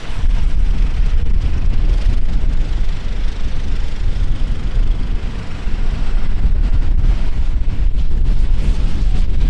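Wind buffeting the microphone in a heavy low rumble, over the steady hiss of heavy rain.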